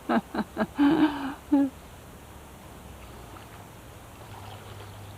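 A person's voice in a quick run of short bursts for the first second and a half, then a low, steady background with a faint hum.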